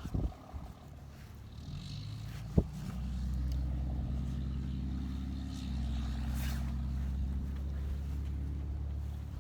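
A motor vehicle's engine running with a low, steady hum that comes up about two seconds in and holds. There is one sharp click just before the hum reaches full level.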